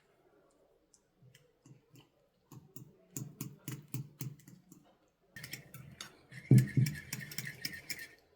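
A series of sharp knocks and clicks, about three a second, growing denser and louder about five seconds in, with one heavy knock near the middle of that stretch.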